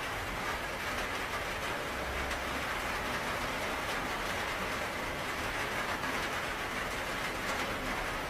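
Steady, even rainfall, a continuous patter of drops with a faint low rumble underneath.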